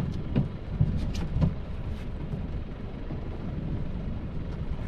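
Crab trap being hauled up out of the water and onto the boat. Several knocks and thumps come in the first second and a half, over a steady low rumble.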